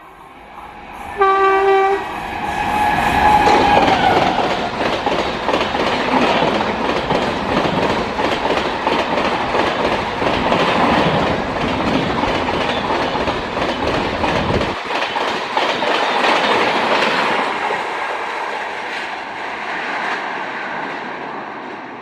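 Indian Railways express train passing at speed: a short horn note about a second in, then a long run of coaches rumbling by with a fast, even clatter of wheels over rail joints. The low rumble drops out abruptly about fifteen seconds in, and the sound fades toward the end.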